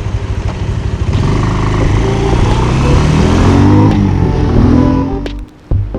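Motorcycle engine idling with an even pulse, then pulling away: its pitch rises, drops at a gear change and rises again. It cuts off suddenly near the end.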